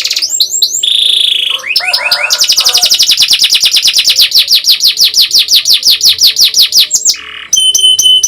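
Domestic canary singing loudly: short whistled sweeps and chirps, then a long, fast rolling trill of about ten notes a second lasting several seconds, ending in a few piping notes.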